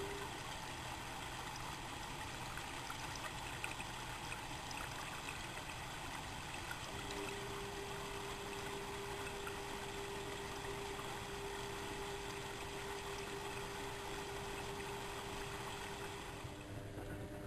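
Water rushing steadily into a Bauknecht WA1400 Dolphin washing machine as it fills, with a steady tone that drops out at the start and comes back about seven seconds in. Near the end the rushing fades and a low hum starts.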